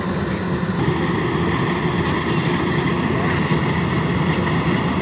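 Engine of a large machine running steadily at constant speed, a continuous low drone with no change in pitch.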